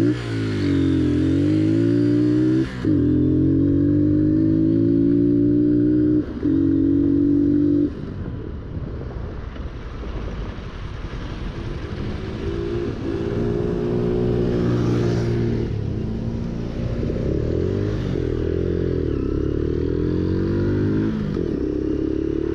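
Motorcycle engine revving and running, its pitch dipping and climbing, loud and steady for about the first eight seconds and then quieter with the revs rising and falling. It does not sound good, which the owner puts down to the wrong carburetor being fitted.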